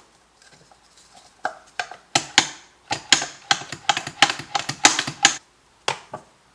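Mazzer Mini doser grinder's doser lever being flicked over and over, a quick irregular run of sharp clacks that sweeps ground coffee out of the doser chamber.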